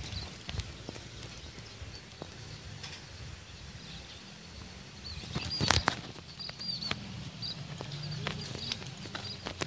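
Short high bird chirps, repeated every second or so, over faint outdoor rural ambience, with scattered small clicks and one louder sharp knock a little past halfway through.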